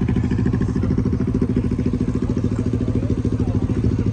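Car engine idling steadily, its exhaust pulsing in a rapid, even beat.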